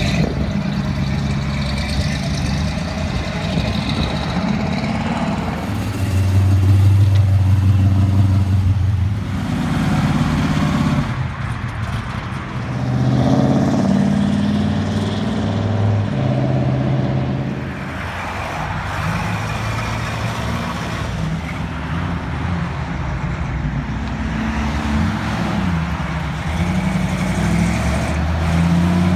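Classic cars and trucks pulling away one after another, their engines accelerating and fading, with a deep engine tone loudest about six to nine seconds in.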